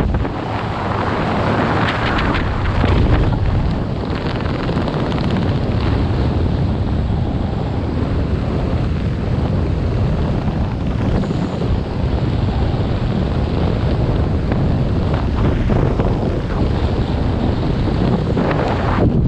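Heavy wind noise on the microphone: a steady rush of air buffeting it.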